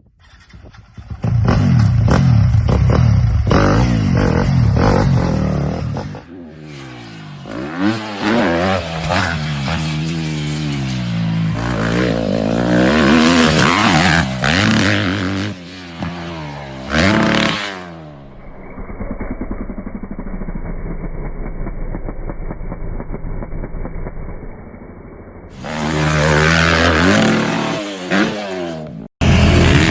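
Dirt bike engines revving in a series of cut-together clips, the pitch rising and falling over and over with the throttle. A quieter, duller-sounding stretch comes in the middle, and the sound drops out briefly just before the end.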